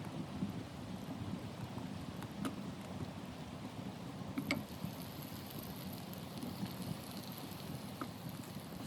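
Steady low rush of blizzard wind, with a few sharp crackles of burning firewood; a thin higher hiss joins about halfway through.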